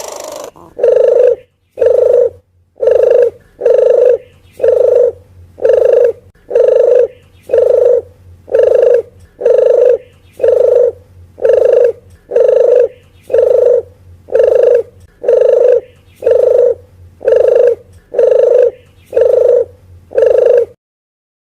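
Bird-lure call of a puter geni dove: one low coo repeated evenly about once a second, around twenty times, then it stops.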